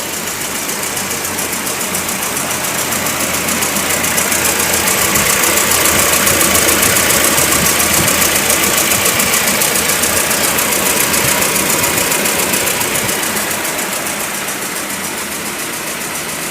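Proton Saga FLX's Campro four-cylinder engine idling with a rapid, even ticking from the valve train. It is a noise like tappet or valve-shim noise.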